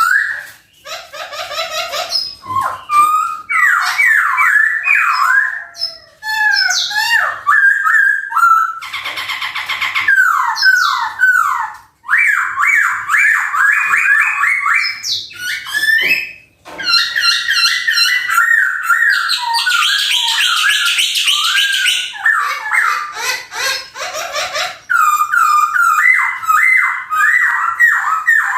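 Poksay hongkong songbird singing loudly and continuously in long runs of rapid, varied whistled notes and trills, with a few brief pauses.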